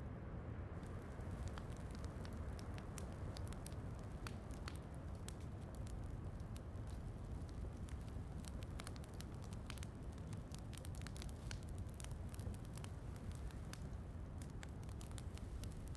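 Wood fire crackling, with frequent small irregular pops over a steady low rumble and soft hiss.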